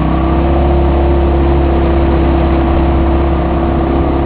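Outboard motor of a fishing boat running steadily at cruising speed, a constant engine drone over a continuous rush of noise.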